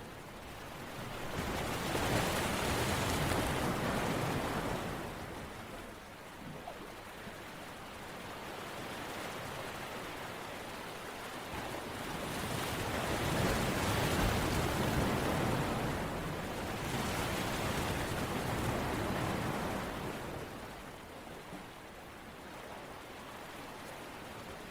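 Steady rushing water noise that swells and subsides in slow surges. There are strong swells a couple of seconds in and about halfway through, and a smaller one shortly after.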